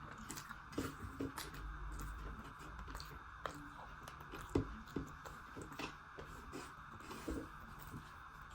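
Close-miked chewing and mouth sounds of a person eating, with irregular soft smacks and clicks over a steady background hiss.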